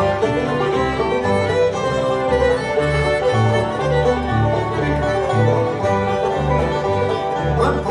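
Bluegrass band playing an instrumental break between verses: banjo, fiddle and guitar over a steady bass line.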